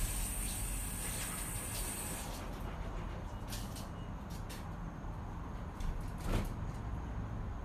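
Steady gusty wind rumbling on the microphone, with a few light clicks and a knock about six seconds in.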